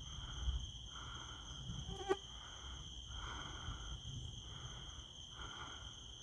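Night insects, crickets among them, keeping up a steady high-pitched drone, with a softer call pulsing about once a second beneath it. A single sharp click sounds about two seconds in.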